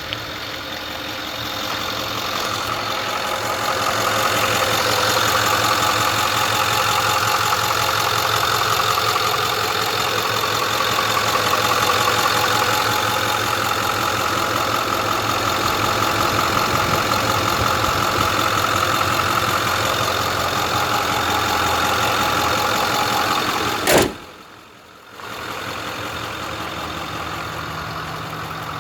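2010 Ford F-550 Super Duty truck's engine idling steadily. A sharp click comes about 24 seconds in, then the running continues quieter.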